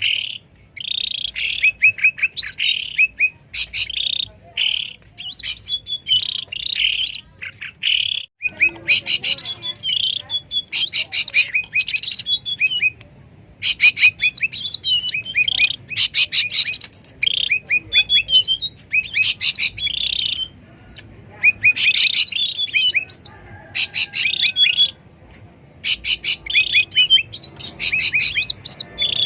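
Cucak ranting birds chattering noisily in fast, clicky phrases of one to two seconds, broken by short pauses.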